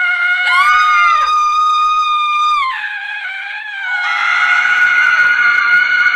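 Women screaming in long, high-pitched held screams: one starts about half a second in and drops in pitch near three seconds, and another, fuller scream begins at about four seconds.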